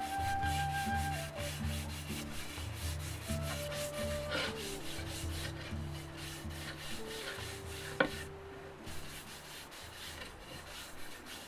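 Quick repeated rubbing strokes on a wooden drum hoop as lacquer is worked onto it, with a single sharp click about eight seconds in. Quiet background music with sustained notes and a pulsing bass plays underneath.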